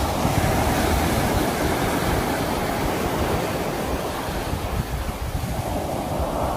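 Sea waves washing onto the shore in a steady rushing surf, swelling near the start and again near the end, with some wind rumble on the microphone.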